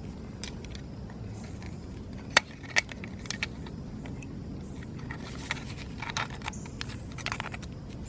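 Metal clinks and rattles of tools and engine parts being handled while the oil screen filter plug is taken out. Two sharp clinks come a couple of seconds in, then a run of lighter clinking.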